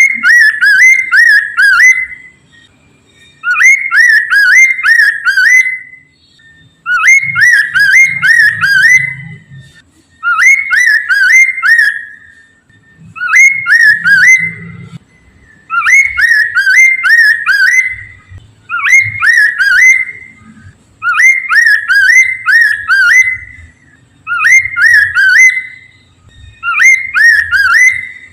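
Poksay mandarin, a laughingthrush, singing a loud whistled phrase of four or five quick rising-and-falling notes, repeated over and over about every three seconds.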